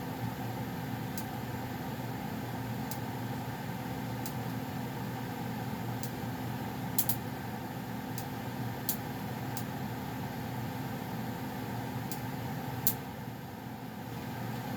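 2011 Goodman gas furnace's blower running steadily with a low hum after the burners have shut off, with scattered sharp ticks and pops, loudest about halfway through and near the end, as the heated ductwork cools.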